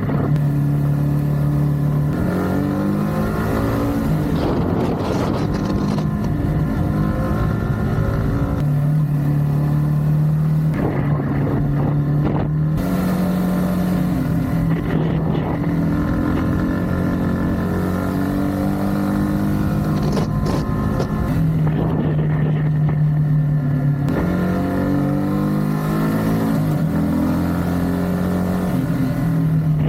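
Yamaha MT-15's single-cylinder four-stroke engine and exhaust running under changing throttle. The revs rise and fall again and again, stepping between gears.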